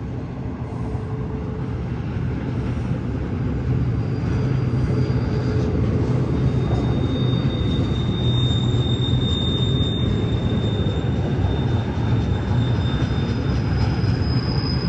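BNSF intermodal container train rolling past on a curve, its cars making a steady low rumble that grows louder over the first few seconds, with thin high wheel squeals coming and going.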